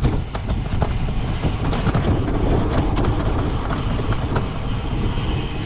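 Cyclocross bike ridden hard over a rough course: a steady wind and rolling rumble on the microphone, with frequent rattles and knocks from the bike over bumpy ground.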